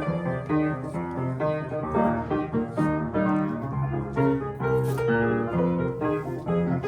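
Solo piano playing a flowing passage, its notes changing several times a second over chords.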